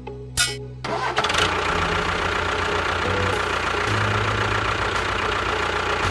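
A small motor or engine on a miniature construction machine starts about a second in and runs steadily, a rough, noisy drone with a fast low pulsing.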